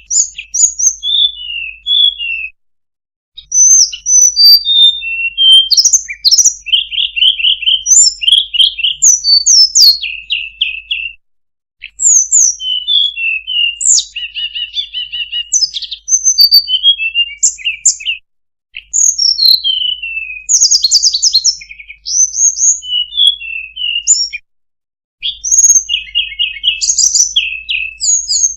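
Recorded songbird lure call for sulingan/tledekan birds: quick phrases of high chirps, down-slurred whistles and short trills, repeated over and over with brief silent breaks between phrase groups, as a looped playback.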